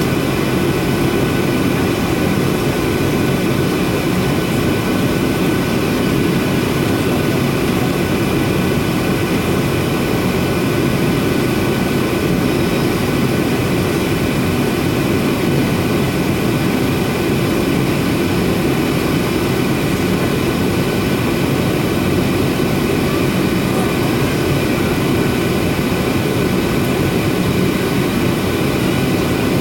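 Boeing 737-800's CFM56-7B jet engines running with a steady, loud rush of noise, with a few constant whining tones over it.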